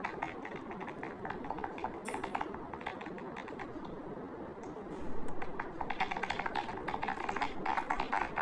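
Typing on a keyboard: a rapid, uneven run of key clicks that grows busier about five seconds in and again near the end.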